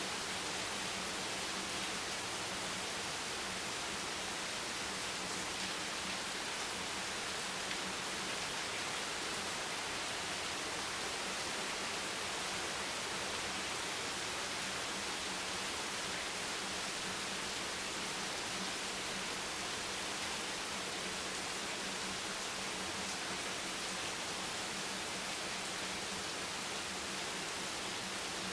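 Steady, even hiss of rain, with no single drops, thunder or other events standing out.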